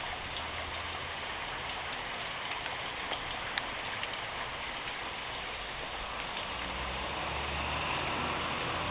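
Heavy rain falling steadily, a dense even hiss with a few sharper drips standing out. A low rumble rises under it over the last couple of seconds.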